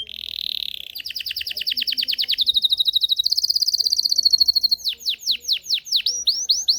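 Domestic canary (Belgian canary) singing a run of rapid trills. A short buzzy note opens it, then a fast trill of repeated notes, then a still faster and higher trill. It ends in a series of quick falling whistles, about five a second.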